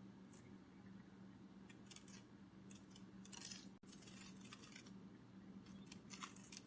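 Faint groups of quick, crisp flutters, a sound effect meant as butterfly wings beating, come every second or so over a steady low hum.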